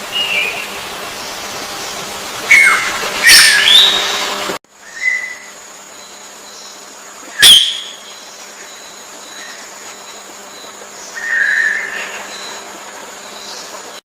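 Songbird calls and chirps over a steady background hiss, loudest in a burst of gliding calls about three seconds in. The sound cuts abruptly to a quieter scene with soft repeated high chirps and one sharp call near the middle.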